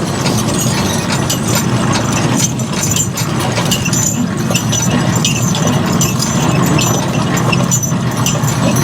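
Horse-drawn rig going by: a steady low rumble with continual rattling and metallic jingling of harness chains and hardware.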